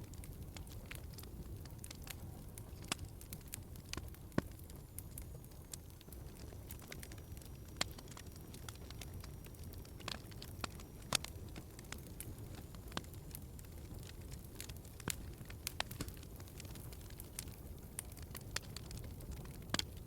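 Wood fire burning in a fireplace: a steady low rumble of flames with irregular crackles and occasional sharper pops of burning logs.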